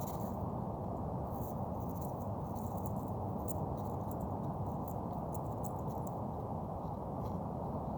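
Dog gnawing on a chunk of ice: many small, irregular crunches and clicks of teeth on ice. Under them runs a steady low rushing noise.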